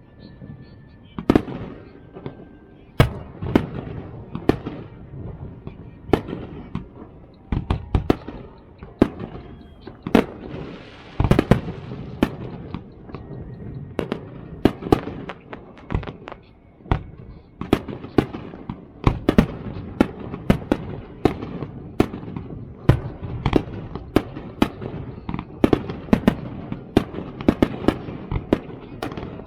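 Fireworks display: many sharp bangs and bursts going off in rapid, irregular succession, with rumble and crackle between them.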